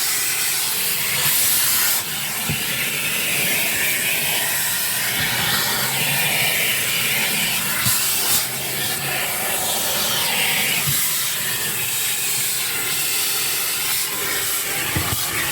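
Car wash vacuum hose sucking air, a loud steady hiss whose tone shifts now and then as the nozzle moves, with a few faint knocks.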